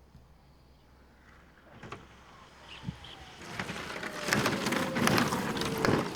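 Large radio-controlled jet model landing and rolling out on the runway: the engine whine falls slowly in pitch as the sound builds, with repeated knocks and rattles from the landing gear running over bumpy ground.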